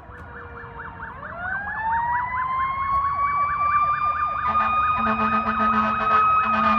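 Fire apparatus sirens: one siren yelping rapidly, joined about a second in by a second siren winding up in a rising wail that levels off into a steady high tone. A low horn comes in about four and a half seconds in, with a short break near the end.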